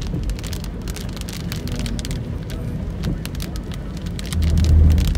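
Heavy rain drumming and pattering on a car's roof and windshield, heard from inside the moving car as many sharp irregular drop hits over a steady hiss, with the low rumble of the car on the wet road underneath. A louder low hum swells briefly near the end.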